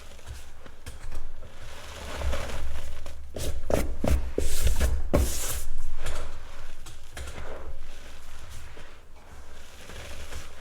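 Gym chalk being crushed and rubbed by hand: a dry crumbling and scraping, with a run of louder crunches and sharp clicks about four to six seconds in.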